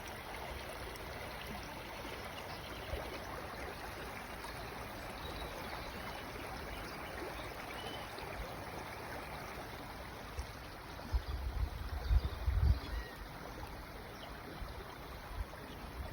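Stream water running with a steady rushing trickle. A few low thumps come around the two-thirds mark.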